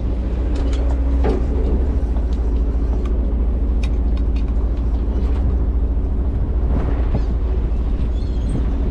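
Bottom trawler's engine running steadily: a deep, even drone with a faint steady hum above it, with a few light clicks scattered through.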